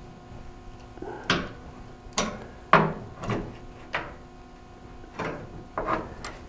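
A series of about eight sharp metal knocks and clanks, irregularly spaced, each with a short ring, from tools working the old exhaust pipe loose from its hangers under the truck. A faint steady hum runs beneath.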